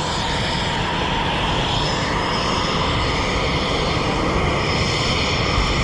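Military jet engine running: a loud, steady rush with a faint high turbine whine over it.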